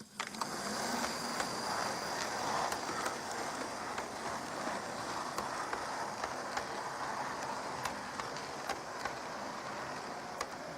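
Hornby OO gauge Flying Scotsman model locomotive, driven by a motor in its tender, running along the track: a steady motor whir and wheel rumble with a faint high whine and scattered light clicks. It starts abruptly as the train moves off.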